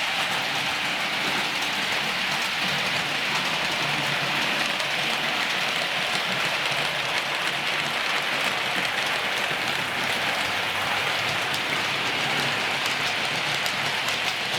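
Steady, even hiss like rain falling on a surface, with no change in level.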